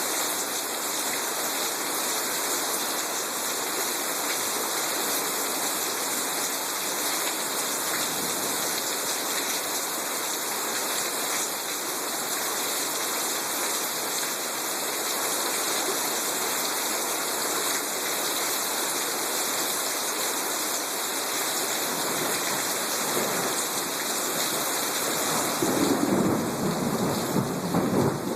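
Heavy rain falling steadily in a thunderstorm, with a low rumble of thunder building in the last few seconds.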